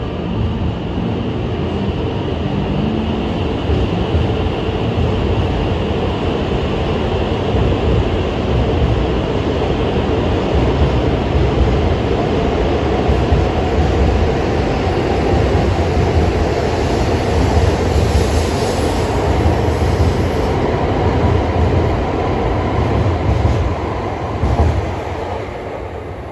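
E5 series Shinkansen train pulling out of the station and gathering speed past the platform: a steady rumble and hiss of running noise that grows louder as the cars go by, then fades near the end as the last car draws away.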